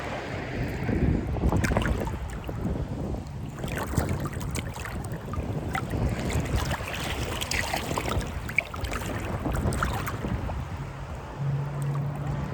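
Sea water sloshing and splashing close to the microphone, with wind buffeting it; many small splashes crowd the middle, and a low steady hum comes in briefly near the end.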